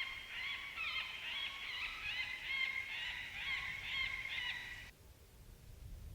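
FoxPro electronic predator call playing a recorded group of coyotes yipping and howling: many short, overlapping rising-and-falling yips. The playback cuts off abruptly about five seconds in.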